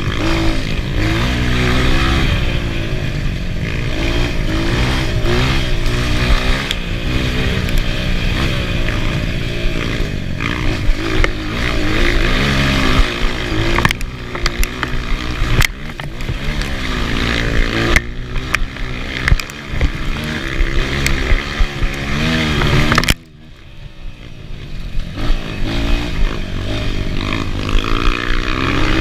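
Enduro motorcycle engine running hard, its revs rising and falling, with frequent knocks and clatter. Near the end the sound drops away suddenly, then the engine builds back up.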